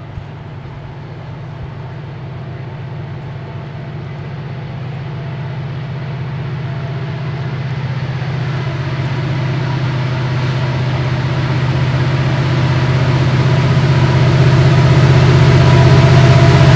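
Diesel locomotive engine running with a steady low hum, growing steadily louder as the train approaches.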